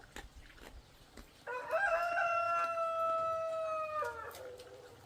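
A rooster crowing once: one long held call starting about a second and a half in, dropping in pitch as it ends.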